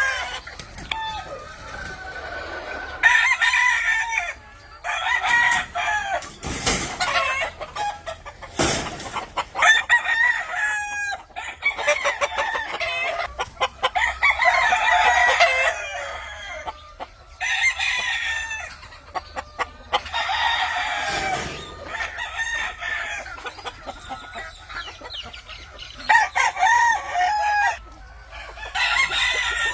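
Several gamefowl roosters crowing again and again, one call after another and often overlapping. Two sharp knocks come about seven and nine seconds in.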